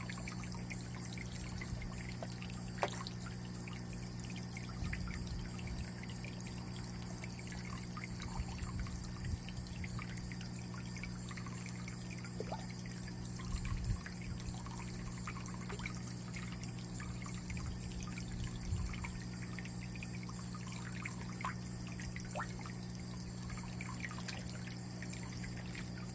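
Water pouring and trickling steadily into an aquaponics fish tank, with a steady low hum underneath and scattered small drips and splashes.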